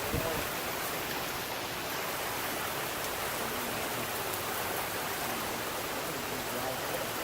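Steady rain from Hurricane Irma's storm, a constant even hiss. A brief thump comes right at the start.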